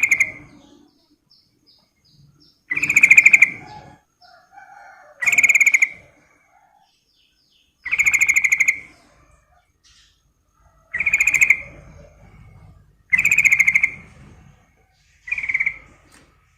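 Yellow-vented bulbul (trucukan) singing: a loud, rapid, bubbling phrase of about a second, repeated about every two and a half seconds, with fainter chirps between phrases.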